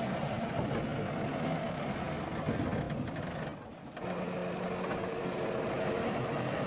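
Diesel engines of heavy earthmoving machinery running at work. The sound drops away briefly about three and a half seconds in, then resumes steadier, with a low steady hum.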